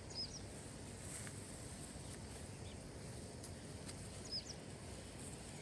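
A small bird chirping twice, two short high calls about four seconds apart, over a steady low background noise.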